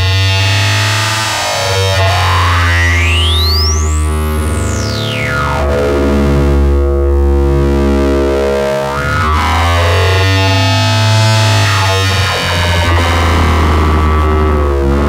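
Eurorack modular synthesizer patch of an Intellijel Rubicon 2 oscillator and Morgasmatron filter: a steady low bass drone under shifting, metallic overtones. A resonant whistle sweeps up to a very high peak about four seconds in, then glides back down.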